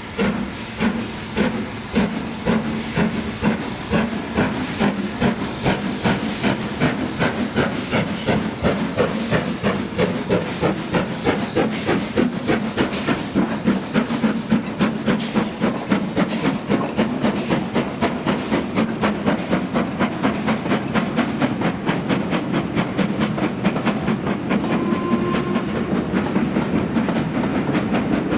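LMS Black Five two-cylinder 4-6-0 steam locomotive working hard under way, its exhaust beats quickening steadily from about two a second to a rapid beat that blurs together near the end, with steam hiss: the engine accelerating away.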